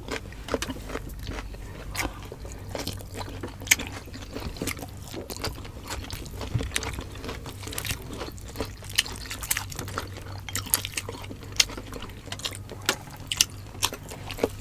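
People chewing roast suckling pig, a run of many short, wet mouth clicks.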